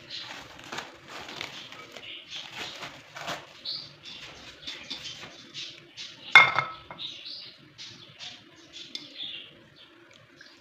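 Kitchen dishes and utensils clinking and clattering in a string of small knocks, with one loud ringing clink about six seconds in.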